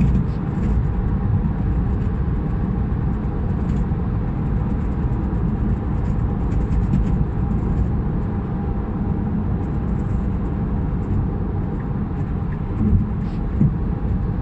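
Noise from the rear of a Tesla Model 3: a steady low rumble with a faint, even tone above it.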